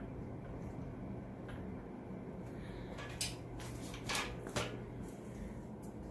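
A few light clicks and knocks of small parts and tools being handled on a workbench, over a steady low hum.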